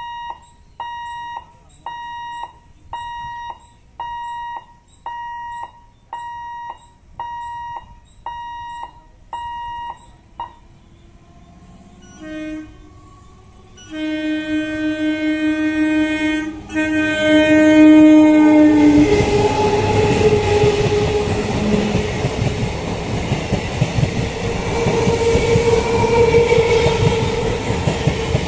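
Level-crossing warning alarm beeping about once a second, then an EMU electric local train's horn: a short toot followed by two long blasts. The train then passes at speed, its wheels rumbling and clattering over the rail joints.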